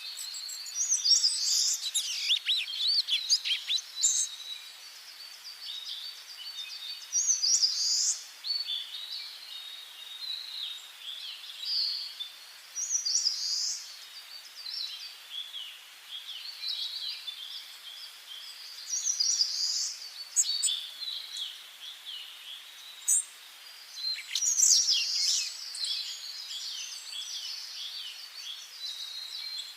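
Several songbirds singing in turn: short, high-pitched phrases and chirps with pauses between them, over a faint steady hiss.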